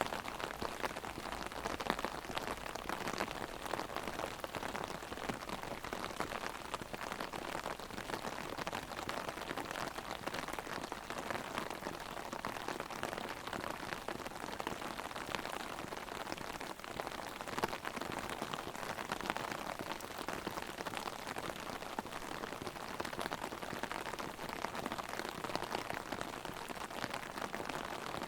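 Heavy rain drumming steadily on an umbrella held overhead: a dense, even patter of countless drops hitting the canopy, with no let-up.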